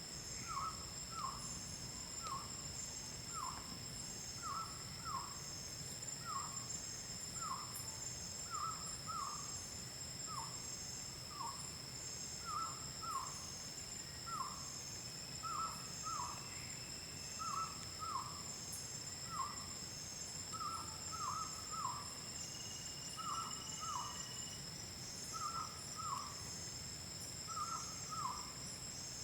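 A night chorus: a steady high insect drone with a pulsing trill above it, and a night animal's short falling calls repeating, often in pairs, about once or twice a second.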